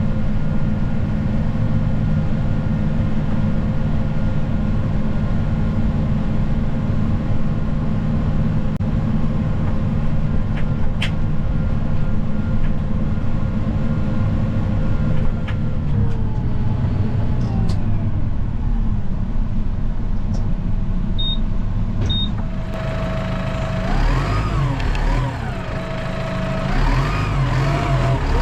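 Snow plow vehicle's engine running steadily, then dropping in pitch as it slows about halfway through. Two short high beeps come a little later, and near the end the engine note rises and falls repeatedly.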